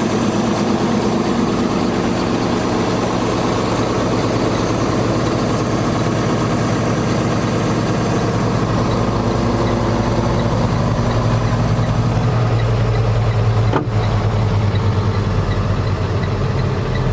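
Cummins ISB diesel engine of a Freightliner M2 dump truck idling steadily. About two-thirds of the way through its note gets deeper, and a single sharp click comes shortly after.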